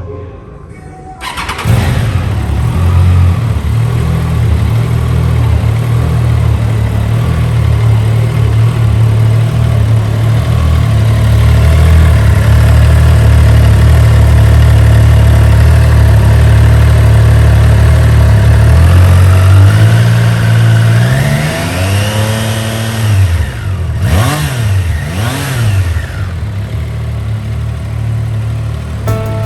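Triumph Trident 660's inline three-cylinder engine starting about a second and a half in and idling steadily. Near the end it is revved in a slow rising sweep, then given two quick blips of the throttle before settling back to idle.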